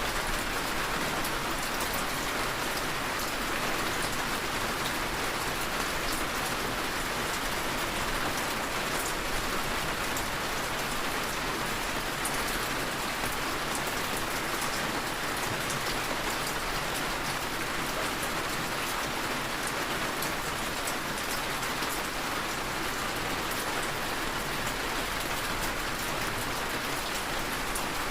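Steady heavy rainfall, a dense even hiss with fine drop strikes spattering on a surface.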